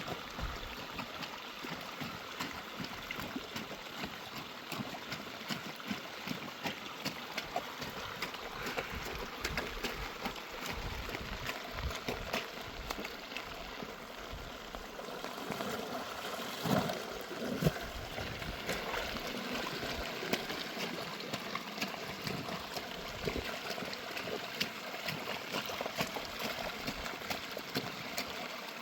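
Steady running water with a constant patter of small drops and splashes. There are a couple of louder knocks about 17 seconds in.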